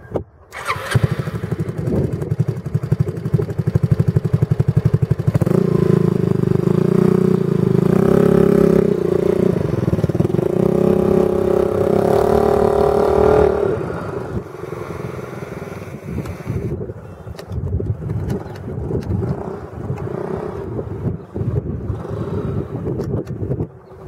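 An engine starts about half a second in and runs with rapid, even firing pulses. It is revved higher from about five seconds in until about thirteen seconds, then drops back to a lower, uneven idle.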